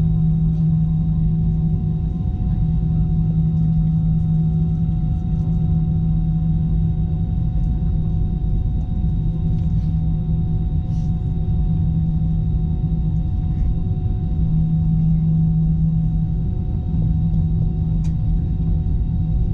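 Steady low drone inside the cabin of an Airbus A321-211 with its engines idling while it holds on the ground for departure. A strong low hum runs with several steady whining tones above it and a few faint clicks.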